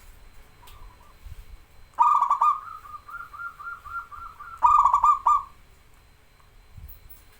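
Zebra dove (perkutut) cooing. A loud rolling coo phrase comes about two seconds in, then a run of softer, quickly repeated notes, then a second loud rolling coo about five seconds in.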